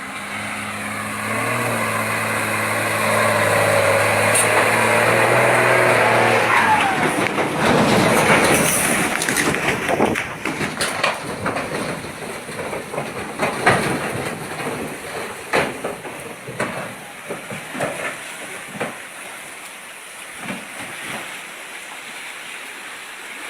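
Heavy truck engine running with a steady note for about seven seconds. Then it gives way to a loud rushing rumble full of sharp knocks and rattles, which thin out over the next ten seconds or so.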